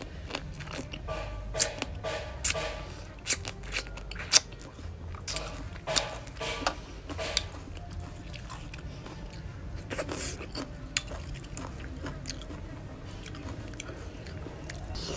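Close-up chewing and crunching of raw crab in papaya salad, with a run of sharp, loud crunches in the first half and a few more about ten seconds in, then softer, steadier chewing.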